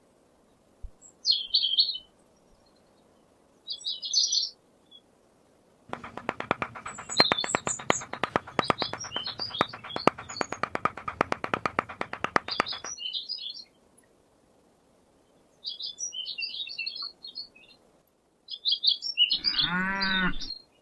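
Birds chirping in short bursts, with a stretch of rapid clicking in the middle and a brief low pitched call near the end.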